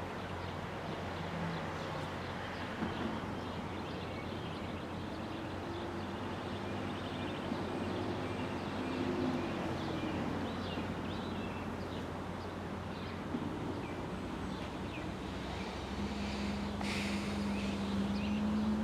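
Steady low rumble of an approaching MBTA diesel commuter train, with a faint engine hum that comes and goes and grows a little louder near the end. Birds chirp lightly, and there is a short hiss near the end.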